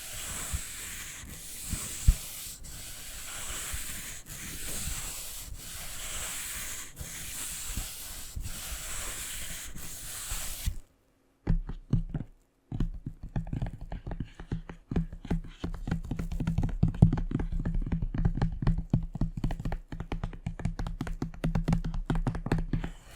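Scratching on a book's cover in steady, regular strokes. About halfway through it stops, and after a short pause rapid, dense tapping on the book begins.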